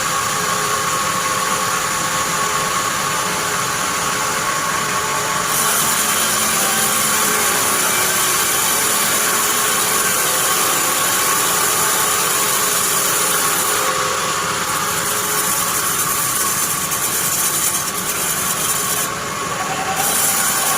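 Sawmill bandsaw running steadily with a constant whine over a broad hiss. The hiss brightens about five seconds in.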